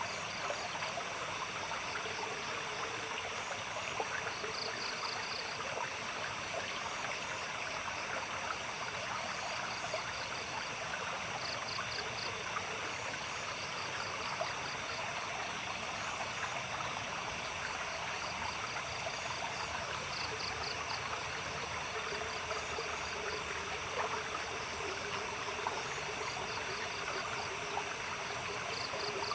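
Running stream water trickling and babbling steadily. Insects chirp over it in short pulsed trills every few seconds, with a constant high-pitched insect drone behind.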